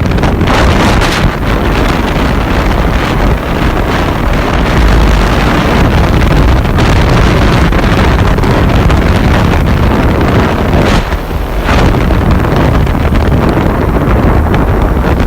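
Loud wind buffeting the microphone over a running scooter engine, a Znen F22 with a 1P50QMB 80cc engine, as when riding. The level dips briefly about eleven seconds in.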